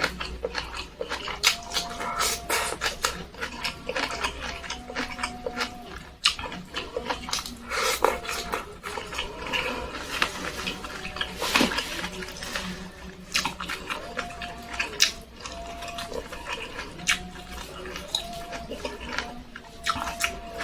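Close-miked mukbang eating of tempe with sambal: wet chewing, lip-smacking and mouth clicks at an irregular pace.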